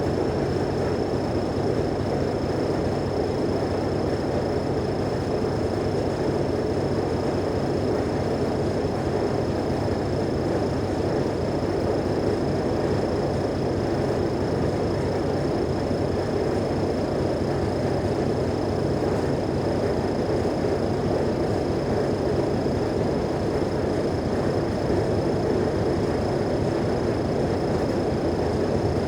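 Mercedes-Benz O345G articulated city bus running steadily at an even engine speed, with a steady high-pitched whine above the engine note.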